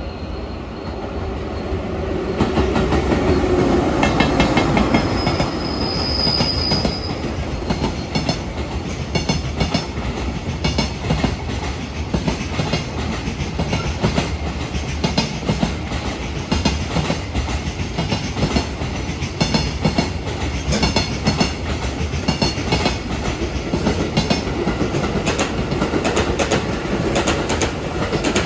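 Electric-locomotive-hauled container freight train passing: running noise swells as the locomotive goes by, a brief high wheel squeal comes about six seconds in, then a long steady clatter of the wagons' wheels over rail joints. A passenger train's running noise joins near the end.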